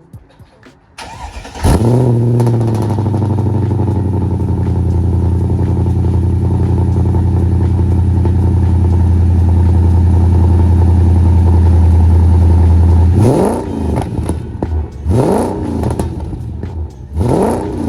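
Mercedes CL55 AMG V8, breathing through long-tube headers, Borla mufflers and no catalytic converters, cranking briefly and catching with a loud flare in revs, then idling steadily and loud. Near the end it is blipped three times, each rev rising and falling quickly back to idle.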